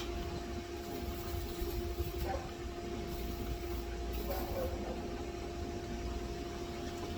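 A steady machine hum over a low rumble, with short high hisses coming and going a few times in the first half.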